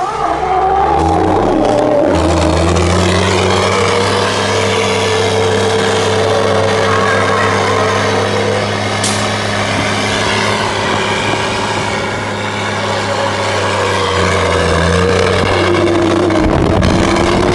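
Racing trucks' diesel engines running loud and continuous, with the pitch dipping and rising near the start and again near the end as the engine speed changes.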